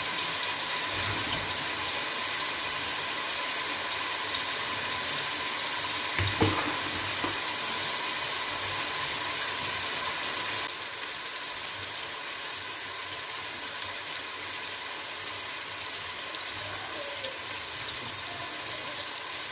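Steady sizzle of diced onions frying in hot oil in an aluminium pot, with a pot of water boiling beside it as washed rice is added. A single knock about six seconds in, and the sizzle softens a little about halfway through.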